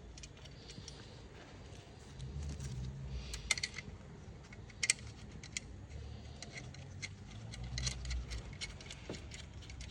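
Scattered light metallic clicks and clinks of hand tools and fittings being handled during brake-booster work on a car, over a faint low rumble.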